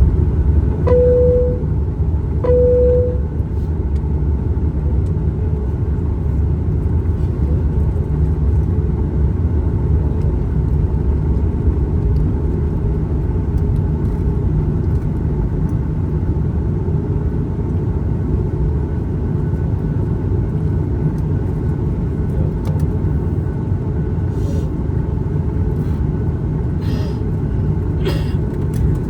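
Airliner cabin noise: a steady low rumble of the engines and airflow. Two short chimes of the same pitch sound about a second and a half apart near the start.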